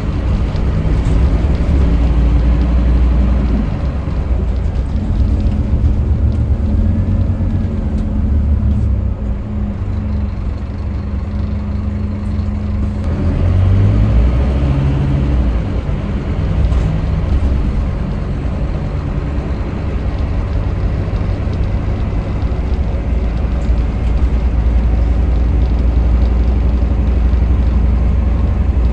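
Scania K310UB city bus's diesel engine running while the bus is under way, with a heavy low rumble. The engine note shifts in pitch several times and rises briefly about 13 seconds in.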